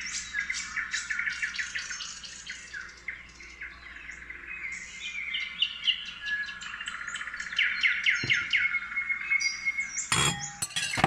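A songbird singing continuously in rapid high chirps and trills, with pitch sweeps and a held note partway through. A brief clatter comes near the end.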